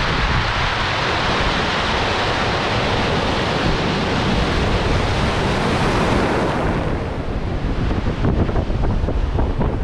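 Strong wind buffeting the microphone, with a broad rushing hiss that thins out about seven seconds in, leaving low, gusty rumbling.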